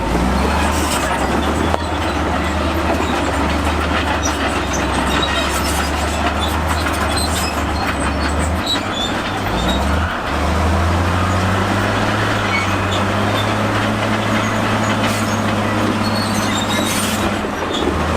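Crawler bulldozer's diesel engine running steadily under load, with a constant clatter of steel tracks. The engine note drops briefly a little past eight seconds in, then picks up again and holds at a higher pitch from about ten seconds.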